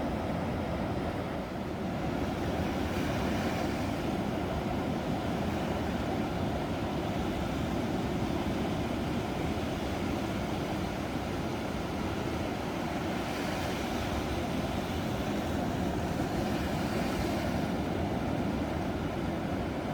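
Ocean surf, a steady low rush of breaking waves. The higher hiss swells a few times as waves break.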